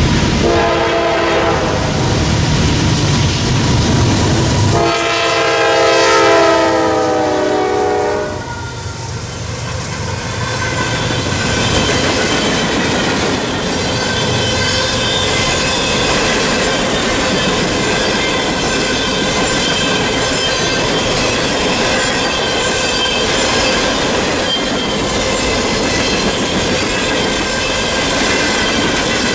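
A Norfolk Southern diesel freight locomotive sounds its multi-chime air horn twice, a short blast and then a longer one about five seconds in, over the low rumble of its engine as it approaches. After that, empty coal hopper cars roll past with a steady clattering of wheels over the rail joints and a thin ringing squeal from the wheels.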